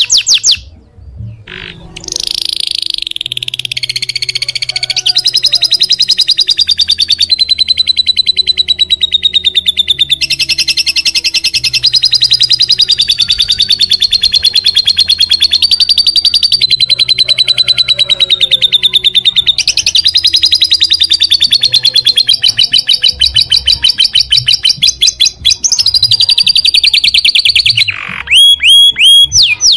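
Caged songbird singing a very fast, buzzy trill of rapidly repeated high notes. It comes in stretches of a couple of seconds that shift slightly in pitch, and near the end it changes to a run of quick downward-sweeping notes.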